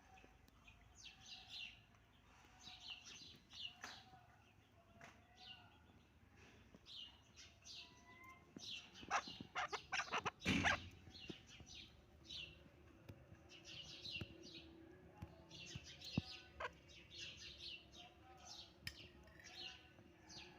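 Chukar partridges calling in short repeated phrases, with a burst of loud knocks near the middle.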